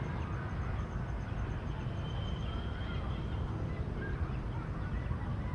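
Steady low rumble of outdoor ambience with faint bird calls, including one longer held note about two seconds in.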